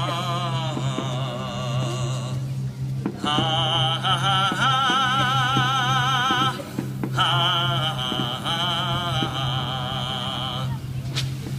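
A solo voice singing long, operatic phrases with a wide vibrato, in three sustained lines with short breaths between, over a steady low accompaniment tone.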